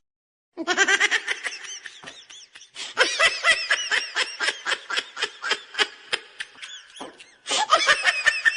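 High-pitched laughter: a fast string of short, rising-and-falling 'ha' sounds, about four or five a second, breaking off briefly about seven seconds in and then starting again.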